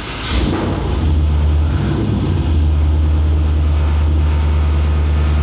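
Engine of a 1960s Chevrolet C10 pickup running steadily at idle, a low even hum that comes up about a second in and then holds.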